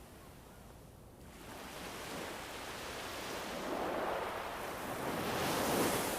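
Ambient nature soundscape: a whooshing rush of noise swells up about a second in, surges and peaks near the end over a low steady hiss.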